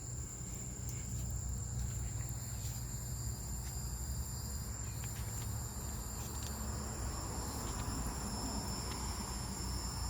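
Steady, high-pitched chorus of insects, such as crickets, over a low rumble, with a few faint clicks.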